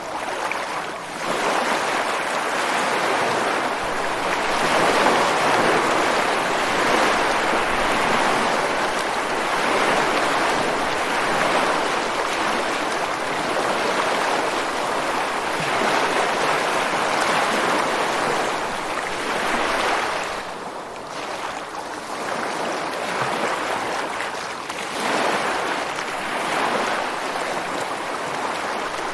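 Ocean surf breaking and washing ashore on a beach: a steady rush of water that swells early on, eases off about two-thirds of the way through, and builds again with the next wave.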